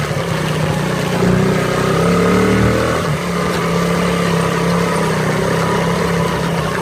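Dirt bike engine running, its pitch climbing over the first few seconds and dropping about three seconds in, then holding steady.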